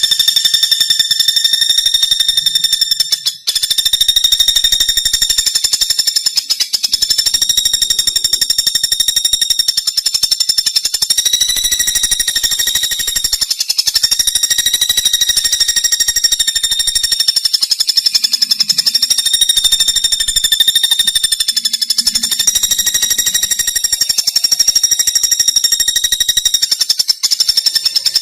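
Common flameback woodpecker (pelatuk bawang) giving a long, very rapid rattling trill on one steady pitch. It runs almost without pause, breaking briefly about three seconds in and again near the end.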